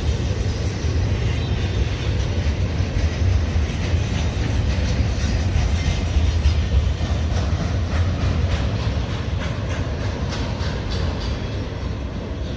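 Union Pacific intermodal freight train's cars rolling past with a steady low rumble, and wheels clicking over the rail joints.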